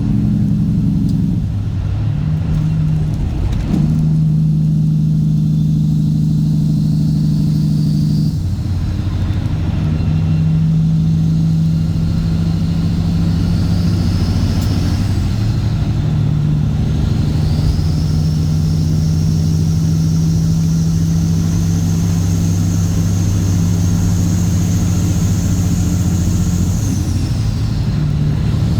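Straight-piped Caterpillar C15 ACERT inline-six diesel in a Kenworth W900 pulling under load, its engine note breaking and stepping several times as the truck goes through the gears. A high whistle climbs slowly through the second half and falls away near the end.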